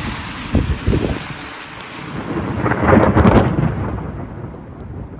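Heavy rain with thunder rumbling. It swells to its loudest about three seconds in, then fades. A few dull thumps come about half a second and a second in.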